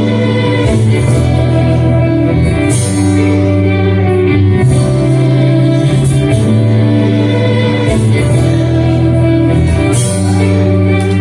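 Live music: the instrumental introduction of a song, with strong held low notes that shift every couple of seconds under sustained higher tones and light cymbal shimmer.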